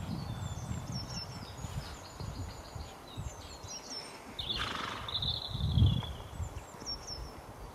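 Small songbirds chirping and singing in short repeated high notes, with a louder call about five seconds in, over an uneven low rumble.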